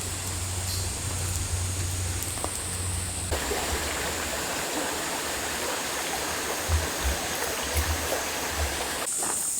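Running water of a stream, a steady rushing hiss that comes in suddenly about three seconds in. Before it there is a quieter steady background with a low hum.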